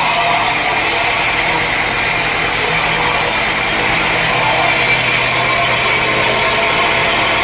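Sawmill machinery running steadily: a loud, even mechanical noise over a low motor hum, with no breaks or changes.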